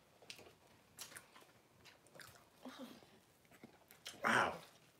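Close mouth sounds of people chewing corn dogs coated in chocolate syrup: scattered soft smacks and clicks, with one louder breathy sound about four seconds in.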